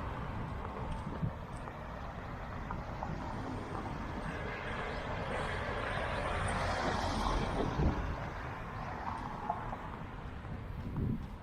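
Street traffic: a steady rumble of motor vehicles, swelling as a vehicle passes close by in the middle.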